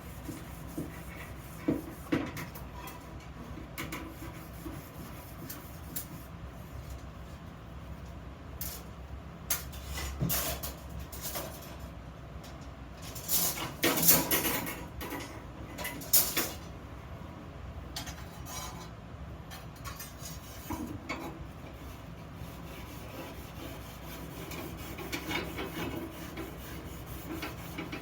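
Steel pieces being handled and set down on a workbench: scattered clinks and knocks over a low steady hum, with a louder run of clanks about halfway through.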